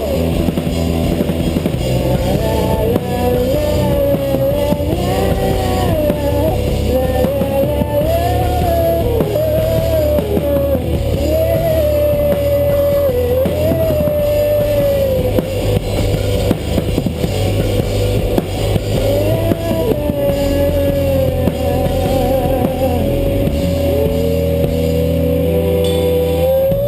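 A rock band playing live through a PA: drums and bass under a single lead melody line that bends and slides in pitch, in an instrumental passage without sung words.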